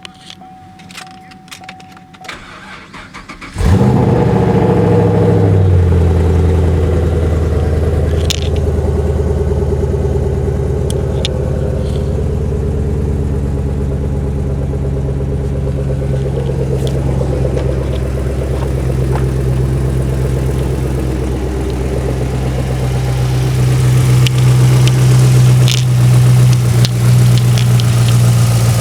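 A 2010 Camaro SS's 6.2 L LS3 V8 engine starting about three and a half seconds in, after a few light clicks, then running at a fast idle that settles within a couple of seconds into a steady idle.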